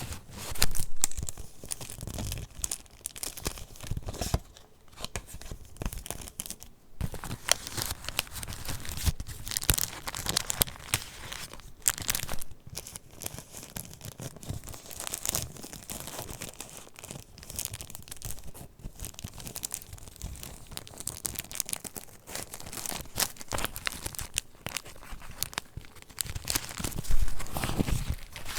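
Paper pages of a handmade junk journal being turned and handled: irregular rustling and crinkling, with louder rustles about a second in and again near the end.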